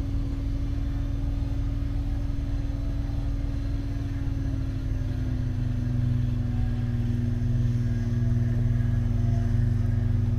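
Off-road truck engine running under load while stuck in deep snow, with a steady whine over the low rumble. The rumble grows louder about six seconds in.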